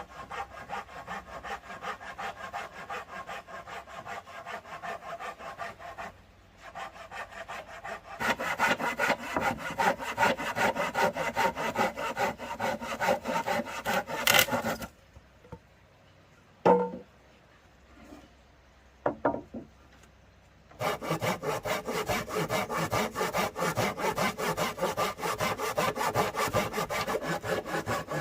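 Saw cutting wood with quick, even back-and-forth strokes. It pauses briefly about six seconds in, then stops for several seconds around the middle, when a few single knocks are heard, and starts sawing again.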